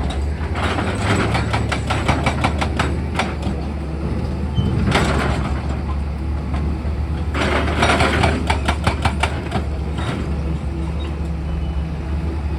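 Excavator's diesel engine running steadily with a low hum. Over it come three bursts of rapid clattering: near the start, about five seconds in, and from roughly seven to nine and a half seconds.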